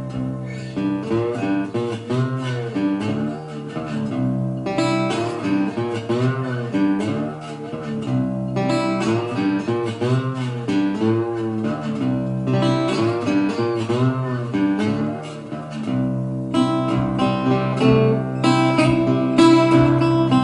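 Instrumental break of a song: guitars playing, with notes bending up and down in pitch.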